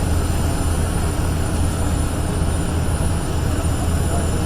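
Steady, loud rumble of aircraft engine noise, even and unbroken, heaviest in the low end.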